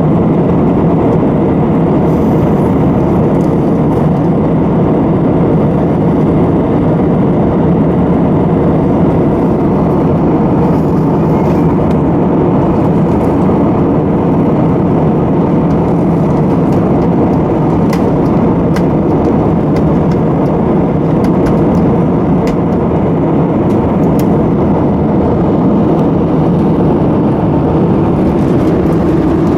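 Airbus A320 cabin noise in flight: a steady drone of engines and airflow with a low, constant hum.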